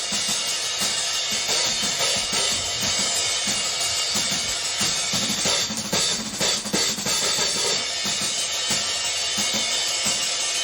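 A live rock band playing the opening of a song, led by a full drum kit: bass drum, snare and cymbals keeping a steady beat under the other instruments.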